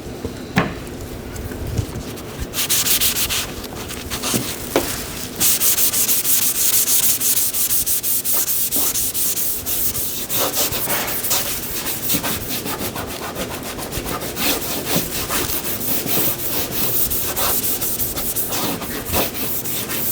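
Hand sanding or scuffing a car body panel: rapid back-and-forth rubbing strokes of abrasive on the paint surface, starting a couple of seconds in, with a few light knocks.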